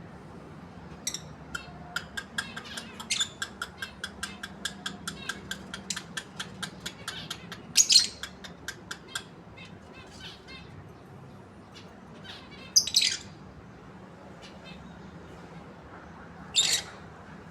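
Lovebirds calling: a fast, even run of short chirps, about five a second, for several seconds, broken by three loud shrill squawks.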